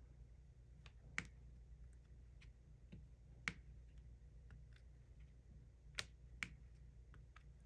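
Diamond painting pen picking up and pressing small resin drills onto the sticky canvas: single sharp clicks every second or two, four louder ones with fainter ticks between, over a faint low hum.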